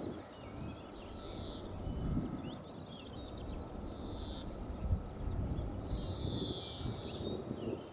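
Small birds chirping and trilling, in many short high notes, over a low, uneven outdoor rumble.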